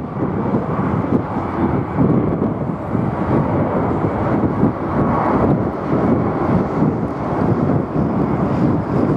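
Jet airliner engine noise, a loud, steady, rough rush, with wind buffeting the microphone.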